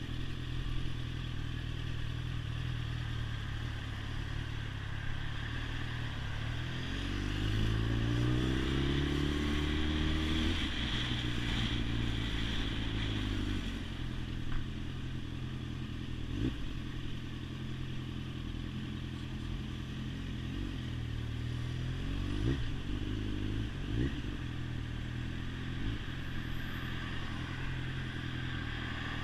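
Motorcycle engine running on the road, its pitch climbing in steps through the gears a few seconds in, then steady, with a few short quick revs near the end.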